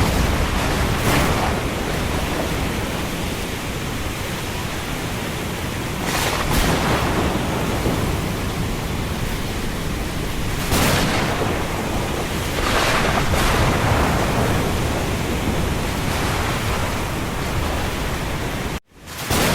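Storm ambience: a steady, dense wash of wind and rain over a low rumble, swelling in gusty surges every few seconds. The sound cuts out sharply for a moment near the end.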